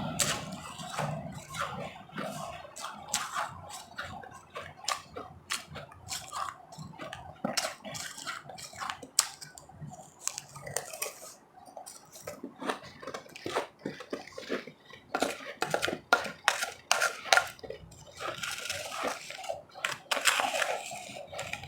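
Ice being chewed and crunched close to the microphone: a steady, irregular run of sharp crunches and clicks, denser in the last few seconds.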